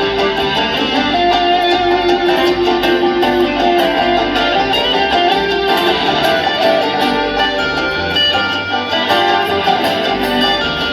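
A live bluegrass string band playing an instrumental passage without vocals, with picked guitar at the front over the other strings.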